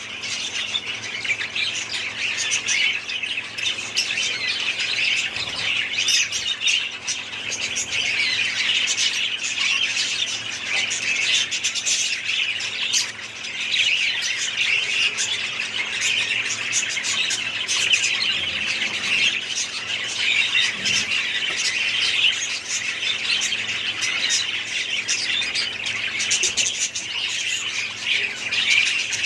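Many caged budgerigars and other small parrots chattering and squawking together in a dense, continuous chorus.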